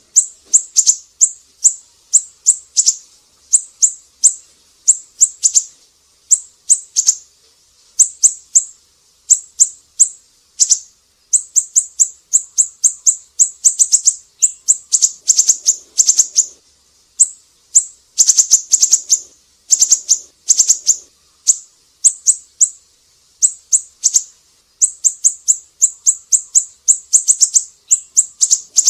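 Siri-siri bird calling: runs of rapid, very high-pitched chips, each run under a second long, repeated over and over with brief pauses.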